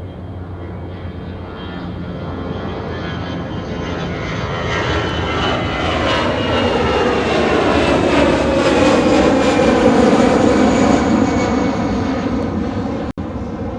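Jet airliner taking off at full power, growing steadily louder to a peak about ten seconds in and then starting to fade, with a sweeping falling-pitch sound as it passes close by. The sound cuts out for an instant near the end.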